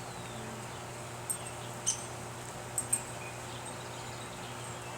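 Honeybees humming steadily around an open hive, with a few short, faint high ticks between about one and three seconds in.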